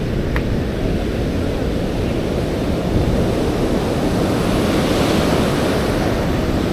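Atlantic surf breaking on the beach as a steady rush, with wind buffeting the microphone; a wave swells louder around the middle.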